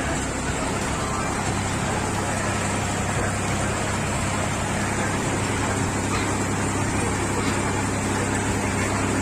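Tractor engine running steadily while threshing paddy.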